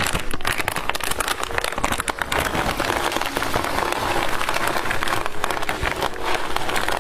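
Dense, irregular crackling and crinkling, typical of candy packaging being handled and opened.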